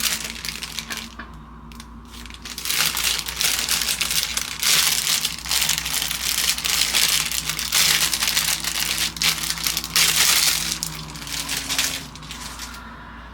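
Loud crinkling and crushing noise in uneven bursts that dies down about a second before the end.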